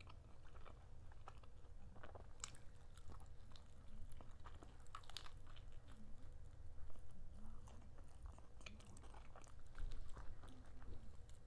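A person chewing and biting food close to the microphone: soft, faint mouth sounds with scattered small crunchy clicks.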